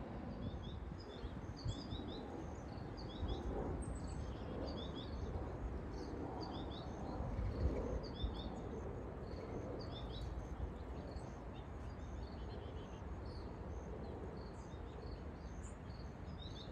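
Small birds chirping, short high chirps, often in quick pairs, repeated throughout, over a steady low outdoor rumble.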